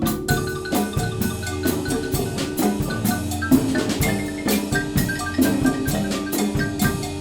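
A student percussion ensemble playing a Latin groove: xylophone and other mallet instruments playing pitched melodic lines over a low bass line, with clave, wood block and drums keeping a steady rhythm.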